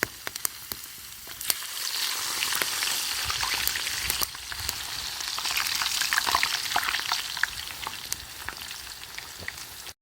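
Food frying in hot oil in a pan over a campfire: a steady sizzle with frequent sharp pops and crackles. It grows louder about two seconds in and cuts off suddenly at the end.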